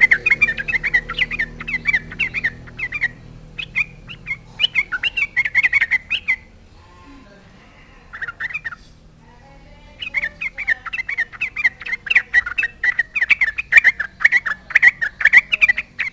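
Yellow-vented bulbul (trucukan) singing a fast, bubbly chatter of short notes. The song breaks off for a few seconds in the middle and starts up again.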